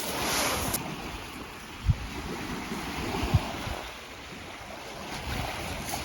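Lake Superior waves washing onto the shore, with wind rumbling on the microphone. Two short low thumps come about two seconds in and again about three and a half seconds in.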